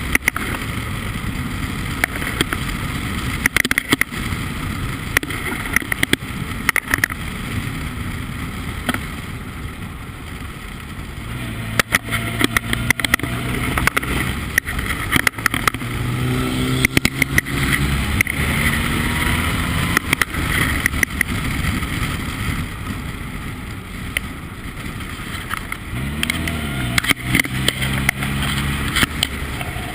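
Formula Ford race car engine running at speed, its pitch rising and falling with throttle and gear changes, with a constant rushing noise and frequent sharp knocks.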